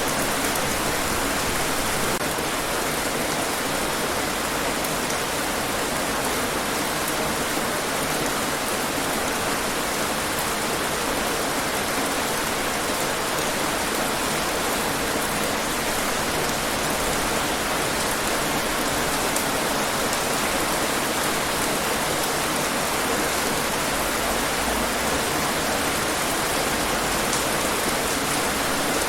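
Steady heavy rain falling and pattering on hard surfaces: an even, unbroken hiss.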